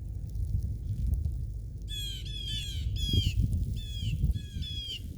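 Birds squawking in a quick series of short, harsh calls from about two seconds in, each call bending down in pitch at its end, over a steady low rumble.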